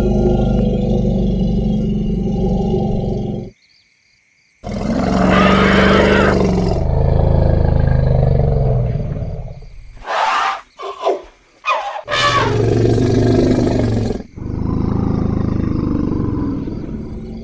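Elephants calling in a string of edited takes. A low moaning rumble stops abruptly about three and a half seconds in, followed by a moment of silence. Then come loud roaring calls, a cluster of short high trumpeting squeals around ten seconds in, another roar, and more low moaning near the end.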